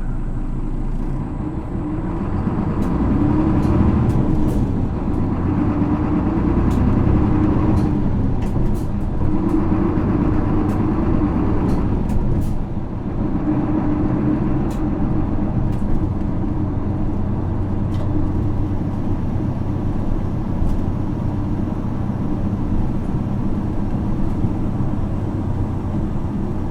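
Isuzu Erga city bus's 6HK1 inline-six diesel engine, heard from inside the cabin, pulling the bus away and accelerating, its note dropping out briefly about three times as the automated gearbox shifts up, then running steadily at cruise through the second half. Small rattles and clicks from the interior sound over it.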